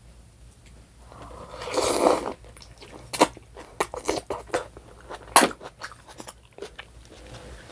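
Close-miked eating: biting and chewing with sharp clicks and short crunches, loudest in a brief swell about two seconds in.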